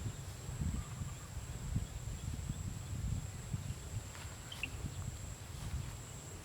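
Rural outdoor field ambience: an uneven low rumble throughout, a steady high-pitched tone, and a couple of short high chirps about four and a half seconds in.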